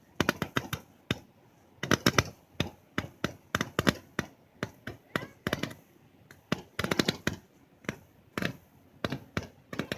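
A barrage candle firework going off: clusters of sharp, rapid crackling pops, a new cluster every second or two, with short quieter gaps between.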